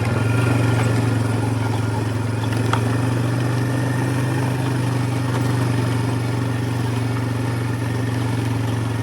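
Four-wheeler (ATV) engine running steadily as it drives, having picked up from slow idle pulses to an even hum right at the start.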